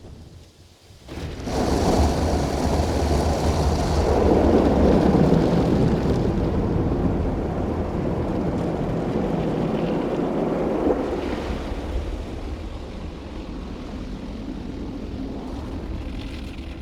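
Tammermatic T700 Lux automatic car wash heard from inside the car: water spray beating on the body over a low machine hum. It stops for about a second near the start, then swells in, is loudest around four to six seconds in and eases off slowly.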